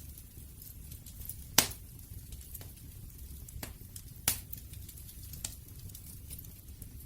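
Wood fire crackling: sharp pops, the loudest about a second and a half in and another just past four seconds, with smaller ticks between, over a low steady rumble.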